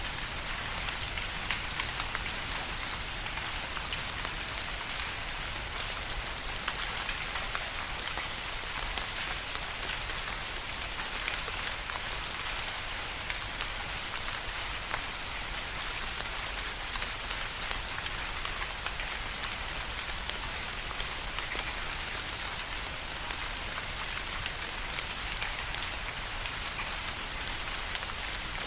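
Steady rain falling and pattering on a surface, an even hiss with many small, sharp drop impacts scattered through it.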